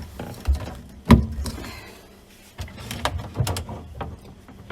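Knocks, clunks and clicks of hands working the plumbing and valve fittings under a kitchen sink, with one sharp knock about a second in and a quick cluster of clicks in the second half.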